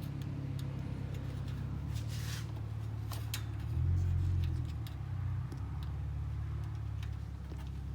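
Low, steady background rumble that swells briefly about four seconds in, with scattered light clicks and a short rustle about two seconds in.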